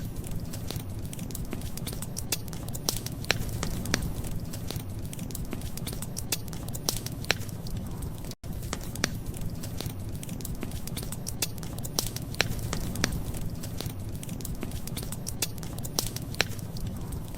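Wood fire crackling: a steady low rumble of burning with frequent sharp pops and snaps, cut by a momentary dropout about halfway through.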